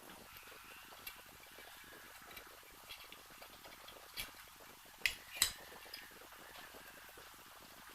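Small metal parts clinking and tapping as they are handled on a workbench: a few light ticks, then two sharper clinks close together about five seconds in.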